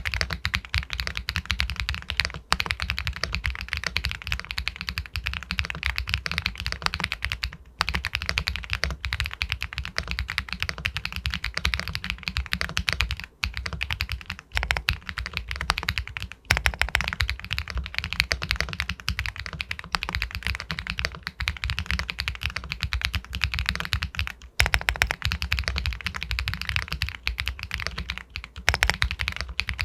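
Continuous fast typing on an Epomaker Galaxy 80 Pro all-aluminium mechanical keyboard with White Jade linear switches: a dense run of keystroke clacks, a sound the uploader likens to pebbles, broken by a few short pauses.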